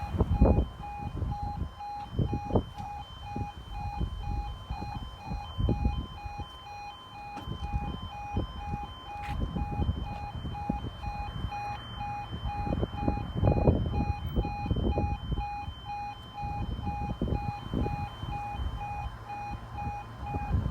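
Level crossing warning alarm (E2S sounder) sounding a repeated pulsing tone, the signal that the half-barriers are down or lowering for a train. Irregular low rumbles run underneath.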